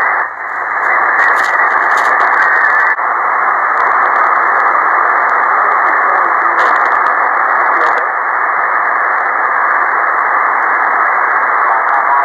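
Ham radio receiver on single-sideband, giving out a steady hiss of HF band noise cut off sharply at the top by the receiver's voice filter, with no station coming through. The hiss dips briefly about half a second in and shifts slightly at about three seconds.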